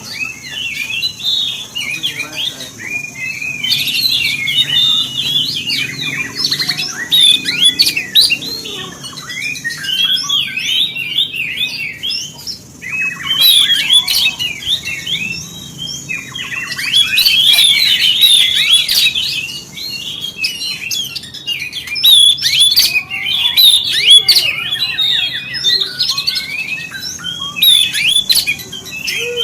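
Oriental magpie-robin (kacer) singing: fast, varied high chirps and whistles in bursts of a few seconds with short pauses between.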